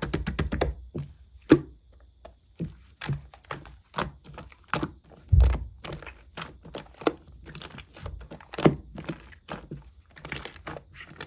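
Mixed two-layer slime being squeezed and folded by hand, making irregular sharp clicks and pops, with quick runs of clicks near the start and near the end.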